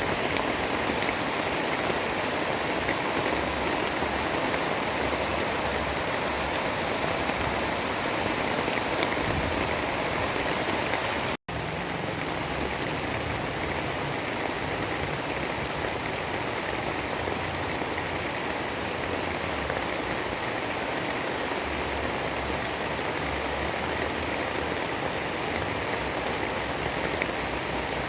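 Steady rainfall, an even hiss with no single drops standing out. About eleven seconds in it cuts out completely for a split second, like an edit splice, then resumes slightly quieter.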